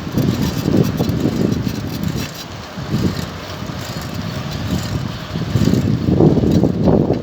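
Wind buffeting the microphone of a moving bicycle rider, a loud uneven low rumble that swells and dips in gusts, strongest in the last second or so.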